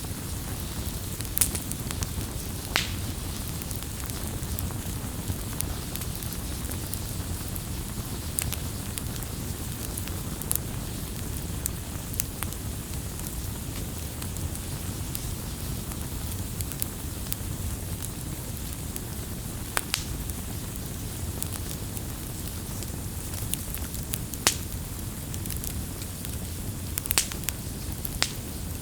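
Campfire burning with a steady low rumble of flames and scattered sharp crackles and pops from the wood, a few louder snaps among them.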